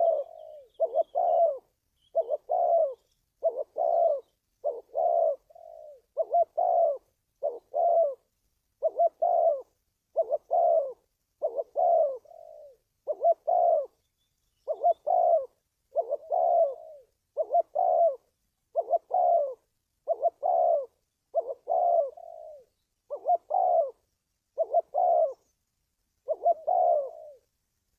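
Spotted dove cooing: a long, even series of short two-part coo phrases, about one every second and a half, the repeated call used as a lure to draw wild doves.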